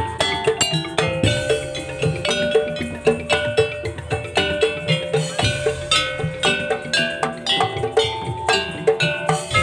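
Madurese daul (tongtong) ensemble playing: a fast, even beat of ringing metal bell-like strikes over drums, with a sustained melodic line on top.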